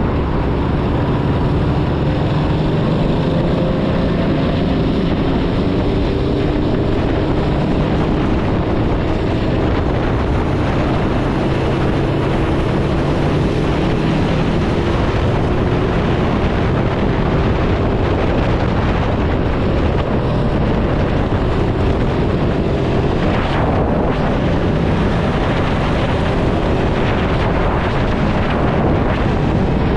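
Ducati Hypermotard motorcycle engine running under way at a fairly steady speed, its pitch drifting slowly up and down. Heavy wind rush over the microphone runs throughout.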